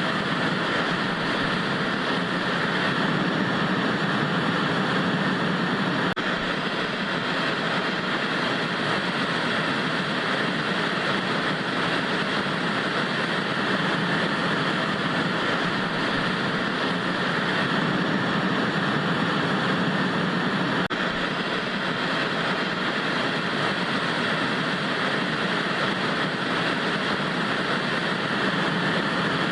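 Steady hiss of television static, an even, unbroken white noise.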